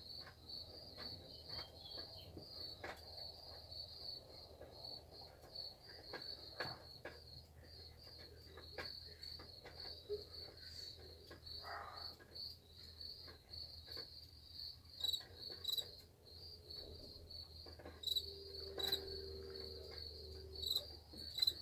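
Crickets chirping in a steady, fast pulsing trill, with scattered faint clicks and knocks.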